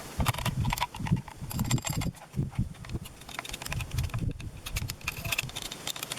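Irregular clicks, knocks and low thumps of hand work on a chainsaw: parts and tools being handled during cleaning, with no engine running.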